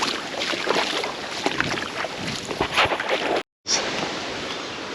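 Sea waves splashing and washing against the shore in irregular bursts, with wind buffeting the microphone. The sound drops out for a moment about three and a half seconds in.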